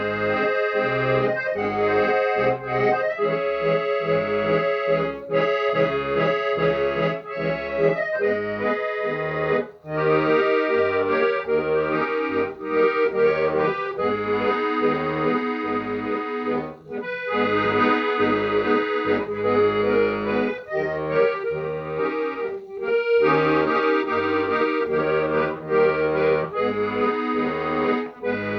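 Accordion playing an instrumental melody over held chords, with bass notes pulsing in a steady rhythm.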